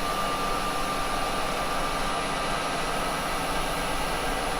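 Axminster wood lathe running steadily with a thin, constant whine over an even motor hum, spinning a cherry bowl during wax finishing.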